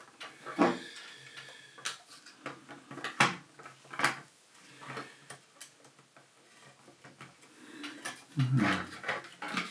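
Model locomotive box and plastic packaging being handled: scattered light clicks, taps and rustles as the parts are fitted back into the box.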